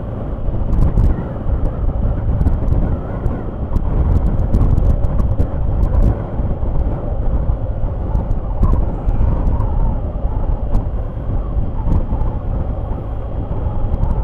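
Motorcycle under way on the road: the engine runs steadily beneath a heavy rush of wind over the microphone.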